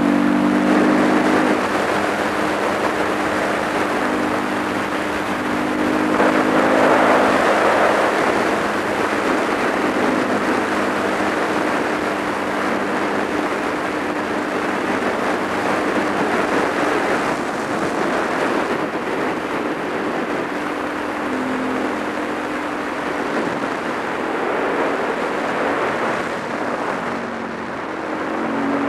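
Supermoto motorcycle engine pulling steadily at road speed under a constant rush of wind over the microphone; the revs rise near the end.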